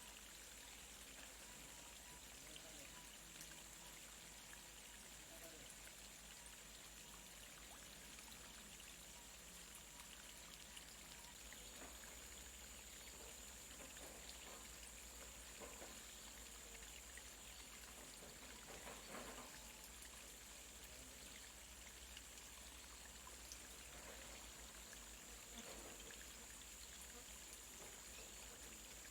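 Near silence: a faint steady hiss with a thin, high, steady tone, and a few faint brief sounds in the middle.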